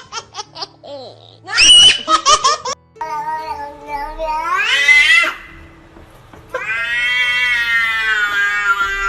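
A child's short bursts of high-pitched laughter, then a cat yowling in two long drawn-out calls: the first rising in pitch, the second held steady for about three seconds.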